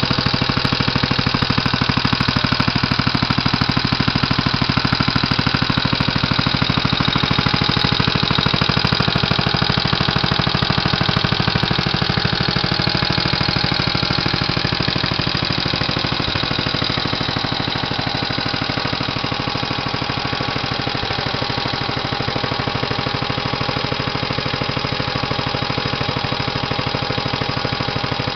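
1937 Briggs & Stratton Model H single-cylinder air-cooled engine running steadily at a fast, even firing rhythm, a nice-running engine almost like new after long storage. It gets a little quieter about halfway through.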